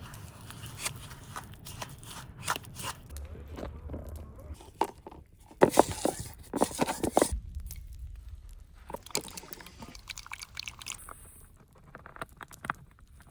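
Irregular crunching with many sharp clicks, close to the microphone, loudest and densest around the middle.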